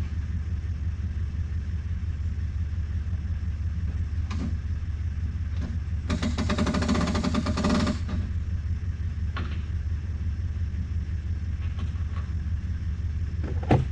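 Engine idling with a steady low hum. About six seconds in, a boat trailer's hand winch ratchets quickly for about two seconds as the bow strap is cranked tight. A few single knocks come through, the sharpest near the end.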